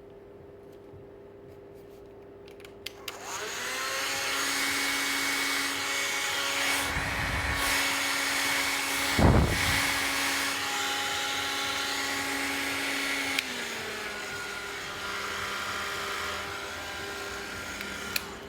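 Makita heat gun switched on with a click, its fan motor spinning up and then running steadily with a whine and a rush of air, which briefly buffets the microphone twice. About ten seconds later a click and a drop in the motor's pitch as it is switched to its other setting, and a final click as it is switched off near the end.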